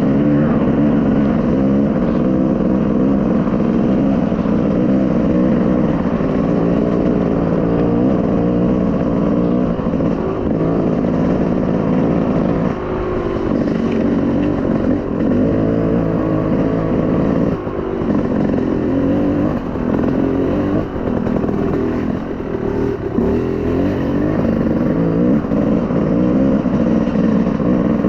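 Small off-road vehicle engine running steadily under throttle while being ridden over the track, with several brief throttle lifts in the second half.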